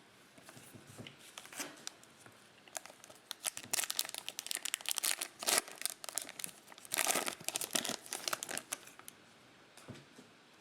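Plastic foil wrapper of a 2020 Mosaic football trading-card pack being crinkled and torn open, in two spells of crackling about four and seven seconds in.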